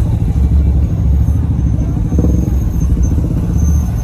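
Vehicle engines running loud with a deep rumble that swells and eases about once a second.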